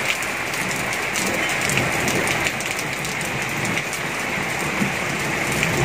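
Heavy monsoon rain falling steadily on an open rooftop terrace and its wet floor and containers: an even hiss with scattered individual drop hits.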